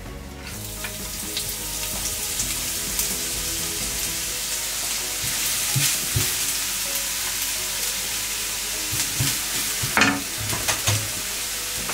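Grated coconut frying with urad dal in hot coconut oil, sizzling steadily as it is stirred with a spatula; the sizzle comes up about half a second in, and near the end the spatula scrapes and knocks against the frying pan a few times.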